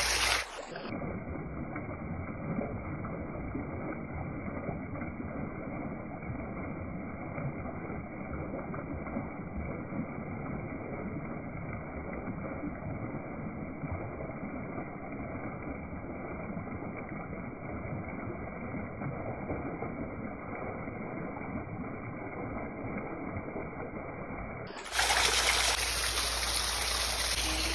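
Steady rush of water from a small river waterfall, sounding muffled for most of the stretch, then clearer and a little louder near the end.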